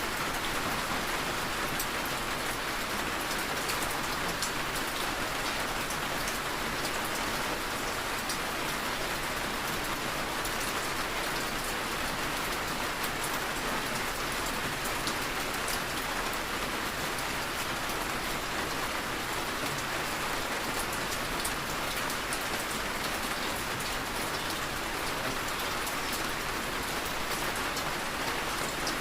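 Heavy rain falling steadily, a dense hiss with fine drop ticks.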